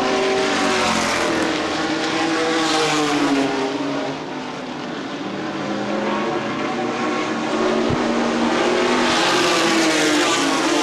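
A field of racing trucks running at speed, several engine notes overlapping. The sound swells louder twice as the pack comes by, dipping in between.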